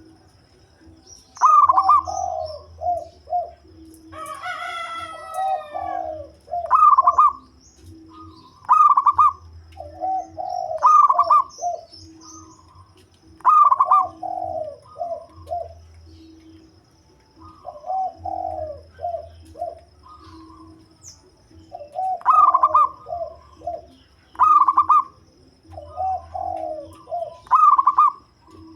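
A deep-voiced local zebra dove (perkutut) singing its cooing song. Each phrase is a higher opening note followed by a quick stuttering run of lower coos, repeated about every two seconds. A different bird call cuts in briefly about four seconds in.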